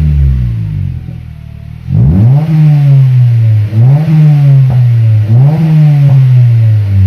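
Honda CR-Z's 1.5-litre i-VTEC four-cylinder through a SPOON N1 muffler, being revved. The revs sink away and go quieter about a second in, then come three sharp blips about a second and a half apart, each rising quickly and sinking back more slowly.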